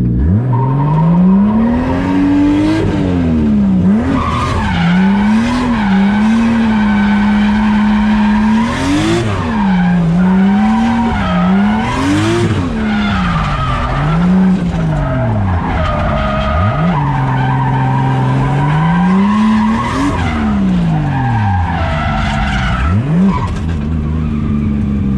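630-horsepower drift car drifting: the engine revs up and falls back again and again, over and over, while the tyres squeal steadily under the slide.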